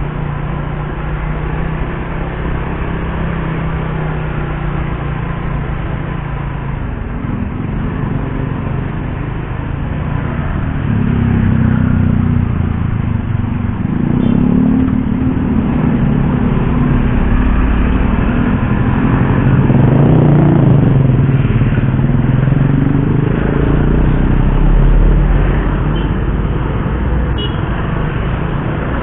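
Suzuki GSX-R150's single-cylinder engine running under way, steady for the first ten seconds or so, then louder, with the revs rising and falling through the rest of the ride.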